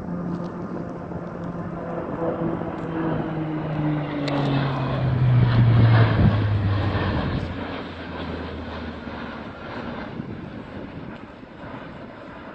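Bombardier Q400 turboprop flying low overhead, its propeller drone dropping steadily in pitch as it passes, loudest about six seconds in and fading afterwards.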